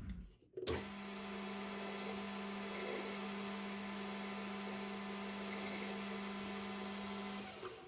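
Metal lathe running steadily with a constant motor hum, while emery cloth is worked against the spinning sleeve to polish it for a press fit. The hum starts under a second in and stops just before the end.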